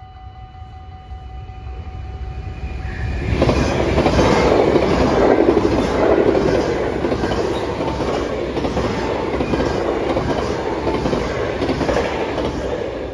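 A VIRM double-deck electric intercity train passes the level crossing, its wheels clattering rhythmically over the rails. The train noise builds quickly about three seconds in, is loudest soon after, and stays loud until it drops away at the very end. Before the train arrives, the crossing's warning bells ring as a steady tone.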